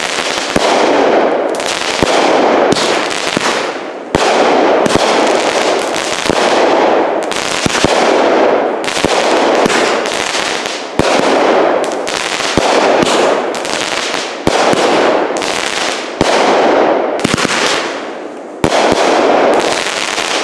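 Consumer firework cake firing a long run of shells, with a sharp launch report about once a second, each followed by about a second of noisy burst as the shell breaks. It is loud.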